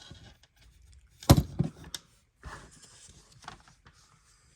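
Plastic LEGO pieces being handled and pressed onto a build: a sharp knock about a second in, then a couple of quieter clicks, followed by soft rustling and tapping.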